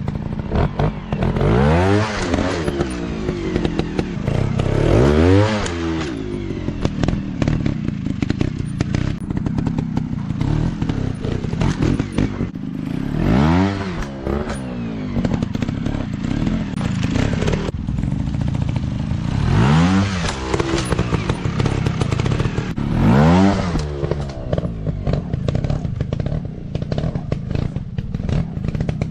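Off-road dirt bike engines revving in short bursts, the pitch climbing and dropping again about six times, with scattered clattering and knocks in between.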